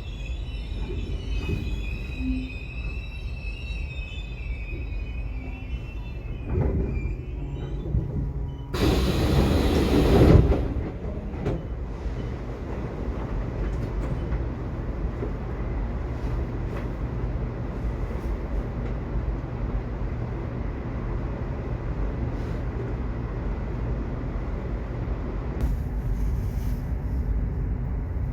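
Subway train running, with a steady low rumble. High-pitched wheel squeal is heard for the first several seconds. About nine seconds in there is a loud rushing burst lasting about two seconds, and then the even rumble continues.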